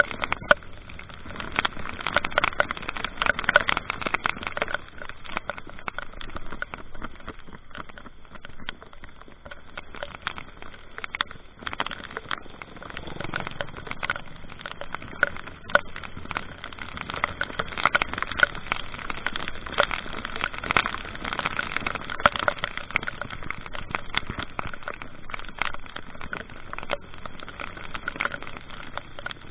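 A vehicle on the move: steady road and wind noise with many small scattered ticks.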